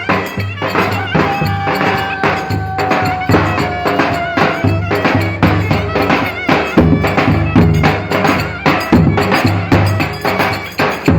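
Live Turkish folk dance music: a drum beating a quick, steady rhythm under a reedy wind instrument playing the melody, with one long held note that slowly falls in pitch in the first half.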